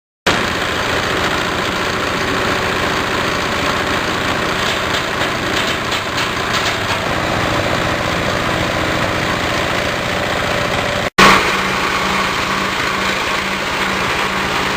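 Multipurpose grass and straw chopper machine running steadily, driven by its engine. The sound cuts out for a split second about eleven seconds in, then runs on.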